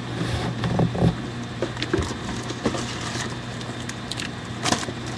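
Pantry items being handled and moved about on a shelf: rustling packaging with scattered small knocks and clicks, over a steady low hum.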